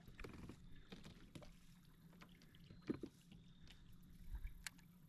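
Near silence with a few faint clicks and knocks, the loudest about three seconds in.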